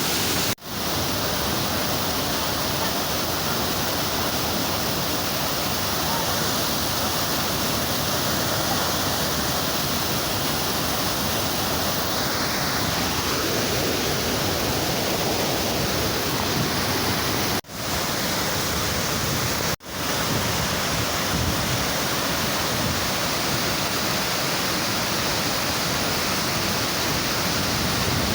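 Waterfall's steady rush of falling water. It drops out sharply for a moment three times: once about half a second in, and twice about two seconds apart past the middle.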